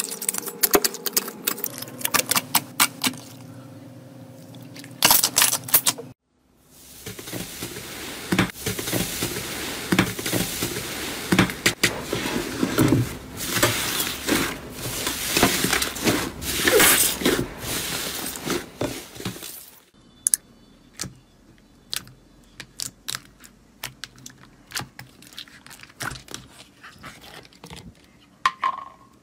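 Slime being squeezed, pressed and poked, making many sharp clicks, crackles and squelches. The sound changes abruptly twice, once about six seconds in and again near twenty seconds; the middle part is the densest and loudest, and the last part has sparser clicks.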